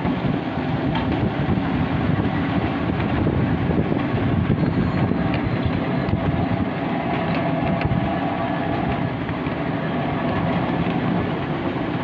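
Miniature railway train running along its track: a steady rumble of wheels on rail, with scattered light clicks, heard from one of its carriages.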